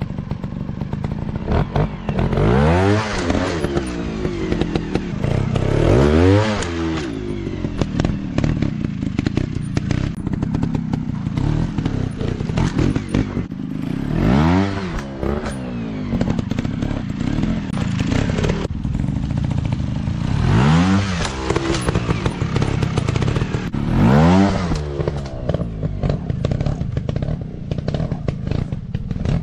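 Off-road dirt bike engine running at low revs and blipping the throttle about five times, the pitch rising sharply and falling back each time, with clattering of the bike over rough ground.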